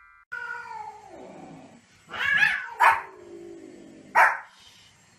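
A cat's drawn-out cry falling in pitch, answered by a small white spitz-type dog barking: two short sharp barks, about three and four seconds in, with more cat crying between them.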